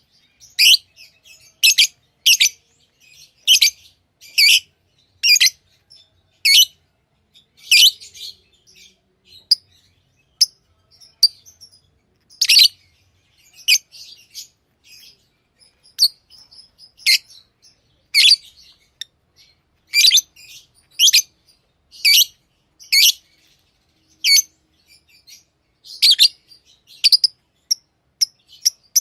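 Pet lovebirds chirping: short, shrill chirps about once a second, with softer calls in between.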